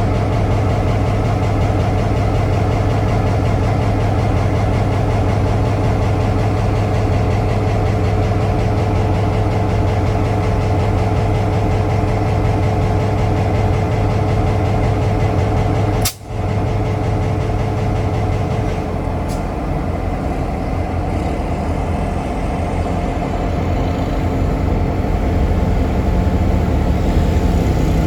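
CC 202 diesel-electric locomotive's engine running steadily with a low hum. The sound cuts out for an instant just past the middle, and the engine note rises near the end.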